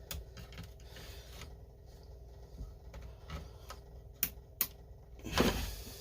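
Hands and tools working on a Stihl 025 chainsaw's fuel line: scattered small clicks and taps, then a louder scraping rustle near the end.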